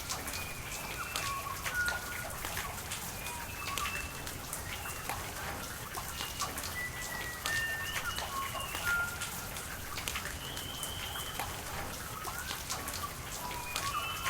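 Rain falling, with many separate drops ticking sharply. Short whistled bird calls at varying pitches sound on and off over the rain.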